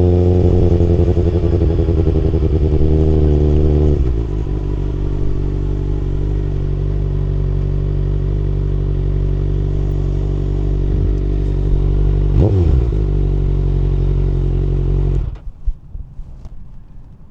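Kawasaki ZX-6R inline-four motorcycle engine running, dropping from riding revs to a steady idle about four seconds in, with a brief rise and fall in pitch near the twelve-second mark. It is switched off suddenly near the end, leaving a few faint clicks.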